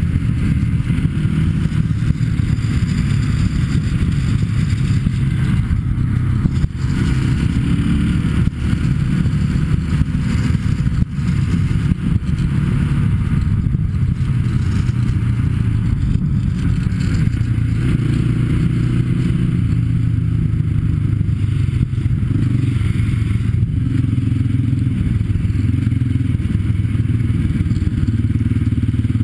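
Sport ATV engines running under way, the engine note rising and falling with the throttle, along with rattles and scrapes from the ride.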